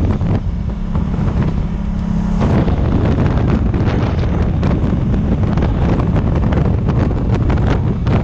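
Wind buffeting the microphone of a riding motorcycle, over the steady running note of the Honda African Twin's parallel-twin engine. For about two seconds near the start the wind noise drops back and the engine's low hum stands out alone, then the buffeting returns.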